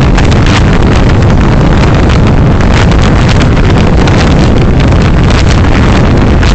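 Loud, steady rumble of a moving car's road and wind noise on a dashcam microphone, heavy in the low end, with irregular gusty crackles of wind on the mic.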